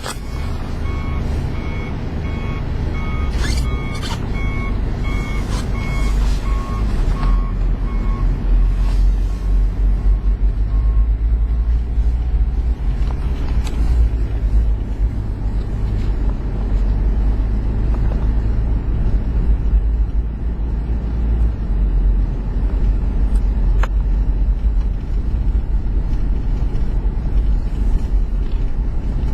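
Heavy diesel snow-clearing truck running steadily, its reversing alarm beeping in a steady rhythm for the first several seconds while it backs up, then stopping. A few sharp metallic knocks are heard over the engine.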